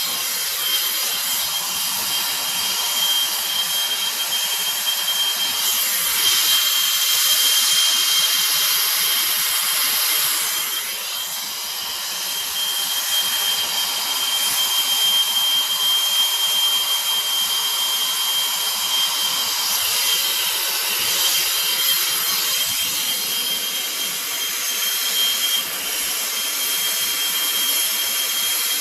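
Handheld gas torch burning with a steady hiss and a faint high whistle, heating copper pipe joints for soldering; the hiss dips briefly twice.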